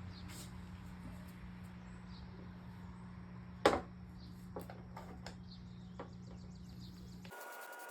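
A single sharp knock about three and a half seconds in, followed by a few lighter clicks, over a steady low hum.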